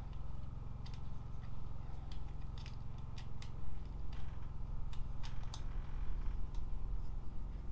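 Scattered small clicks and taps of hand tools and metal parts as a metal support band is fitted and screwed onto an insulated chimney pipe, over a steady low hum.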